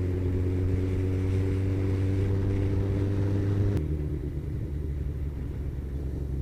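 Kawasaki ZZR1400's inline-four engine running at a steady cruise, with wind noise. A little under four seconds in there is a click, and the engine note drops to a lower pitch and gets slightly quieter.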